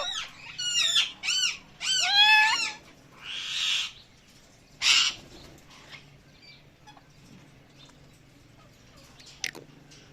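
Pet parrot calling: a quick run of rising-and-falling whistled notes over the first few seconds, then two short harsh squawks about three and a half and five seconds in.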